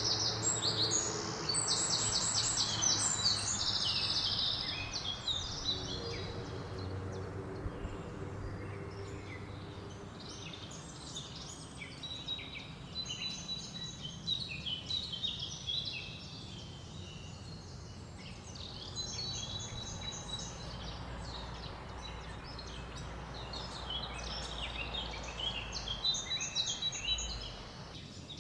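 A chorus of several songbirds singing and calling at once, with trills and fast repeated notes, over a steady rush of wind through leaves that swells near the start and again later on.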